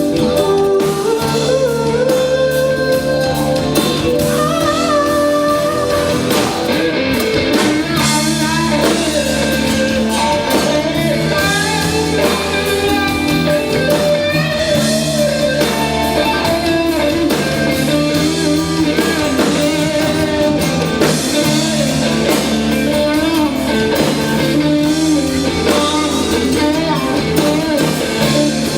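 Live pop-rock band playing a song, with a singer over guitars, bass and a drum kit.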